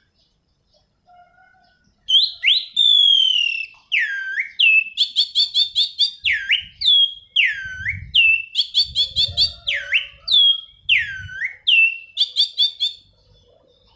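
Anis cendana (orange-sided thrush) singing a loud, varied song. Whistled notes dip sharply in pitch and swoop back up, alternating with quick rattling trills of short high notes. The song starts about two seconds in and stops near the end.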